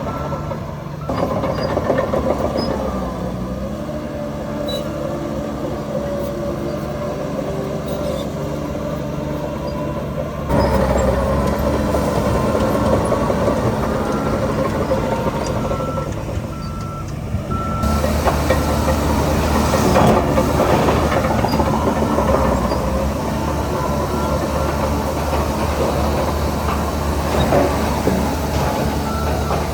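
Heavy diesel machinery working, a bulldozer and dump truck engines running under load, with a reversing alarm sounding evenly spaced beeps around the middle and again near the end. The engine sound shifts abruptly a few times.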